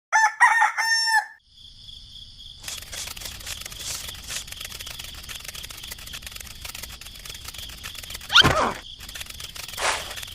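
A rooster crows once near the start. A steady high-pitched drone and hiss follow, with a louder sweeping call about eight seconds in.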